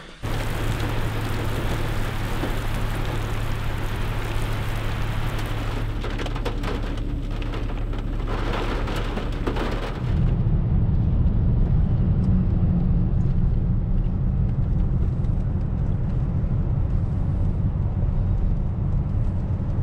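Sleet and rain pelting the roof and glass of a vehicle, heard from inside the cab as a dense hiss over a steady low hum. About halfway through, the hiss falls away and the low rumble of the vehicle driving on the wet road takes over.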